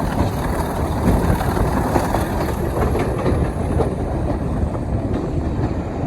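A moving diesel-hauled heritage train: a steady, loud rumble and rattle of running gear on the rails.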